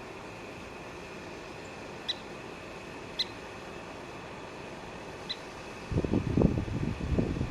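Western kingbird giving three short, sharp calls a second or two apart. Near the end a louder low rumbling sets in on the microphone.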